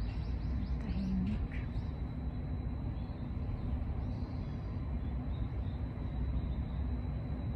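Small birds chirping: a quick run of high chirps in the first second or so and another brief call about four seconds in, over a steady low rumble.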